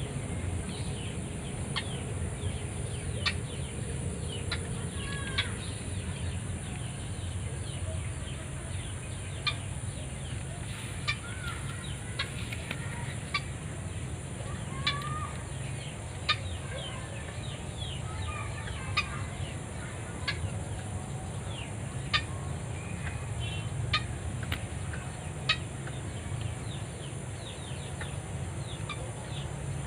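Birds calling: short, sharp clucking notes and brief chirps at irregular intervals, over a steady low rumble and a constant high insect-like whine.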